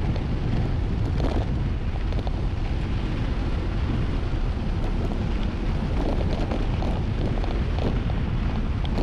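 Wind buffeting the camera microphone on a fast mountain-bike descent: a steady, heavy rumble. Scattered clicks and rattles, busiest about a second in and again near the end.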